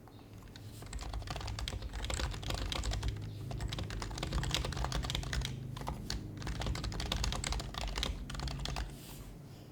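Fast continuous typing on an HHKB Professional HYBRID Type-S keyboard, its quiet Topre keys making a rapid soft clatter of many keystrokes, with a short pause a little after halfway, stopping about a second before the end.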